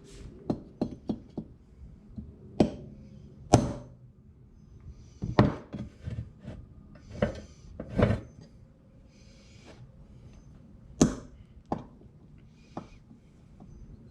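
Small metal carburetor parts and hand tools clinking and knocking against each other and the bench as a 1972 Honda CB450 carburetor is taken apart. About a dozen separate sharp knocks and clinks come at irregular intervals, a few of them louder and briefly ringing.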